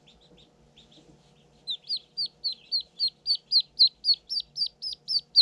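Day-old ducklings peeping. Faint peeps at first, then from about a second and a half in a loud, regular run of short peeps, each dropping in pitch, about four a second.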